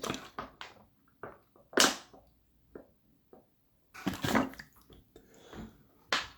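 Scattered short clicks and knocks of light handling, a louder one about two seconds in and a few together around four seconds.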